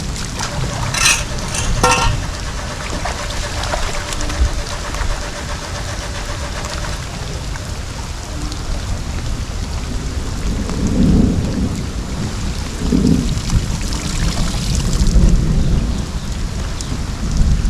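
Heavy rain and rushing water: a steady loud rush with low rumbling throughout and a few sharp clicks in the first couple of seconds.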